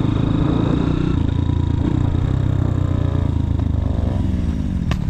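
Motorcycle engine running steadily, its pitch falling a couple of times in the second half, with a sharp click near the end.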